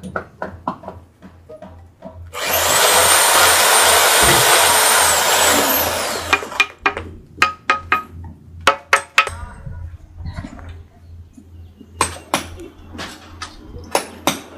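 A loud motorised tool runs for about four seconds with a high whine, then winds down. A string of sharp knocks and taps follows, over a low steady hum.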